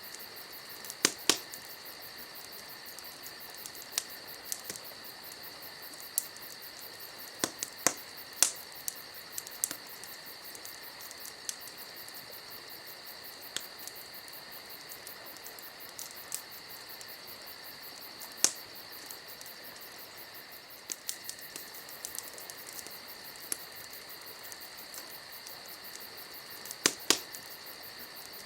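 Wood campfire crackling, with scattered sharp pops, the loudest a pair about a second in, one near 8 seconds, one near 18 seconds and a pair near 27 seconds. Under it, crickets keep up a steady high trilling chorus.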